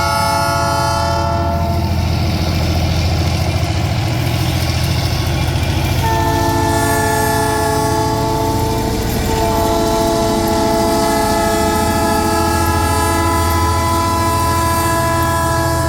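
Diesel freight locomotive sounding its multi-chime air horn: one blast ends about a second and a half in, and after a pause the horn comes back about six seconds in, breaks briefly, then holds a long blast. The locomotive's diesel engine runs underneath throughout.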